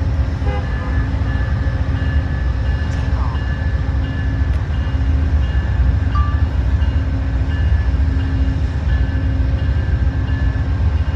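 Amtrak diesel locomotives running with a loud, steady low rumble, while a bell rings about twice a second throughout.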